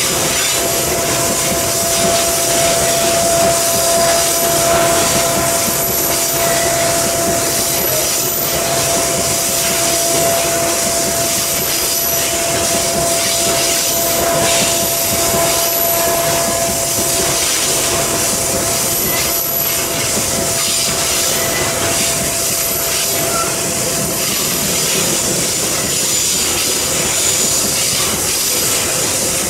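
Long train of loaded coal hopper wagons rolling past on a curve, a steady rumble and clatter of wheels on rail. A thin steady wheel squeal fades out a little past the halfway point.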